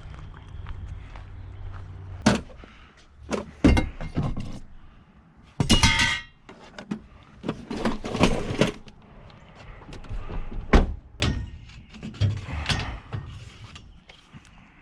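Tools and metal being handled and set down: a string of clunks and knocks, with one ringing metallic clang about six seconds in.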